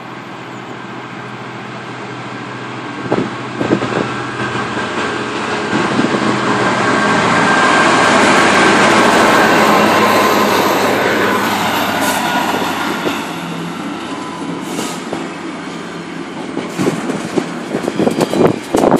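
Class 66 diesel-electric freight locomotive, with its EMD two-stroke V12 engine, approaching and passing at speed. The sound builds to a peak about eight seconds in, and the engine note drops in pitch as it goes by. Near the end its wagons rattle and clatter over the rail joints.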